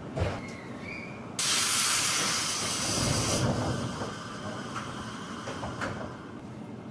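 A 211 series electric train's compressed-air system lets out a sudden loud hiss lasting about two seconds, over the low rumble of the standing train. A single knock comes just before it.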